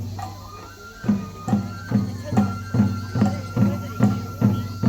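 Festival music for a shishimai lion dance: a drum struck steadily, about two or three beats a second, starting after a short pause about a second in. A high, flute-like note is held steady over the drumming.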